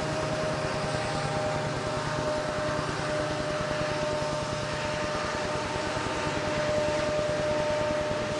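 Southern Pacific freight train's diesel locomotives running steadily, a steady high whine held over a rumble with a fast low pulsing.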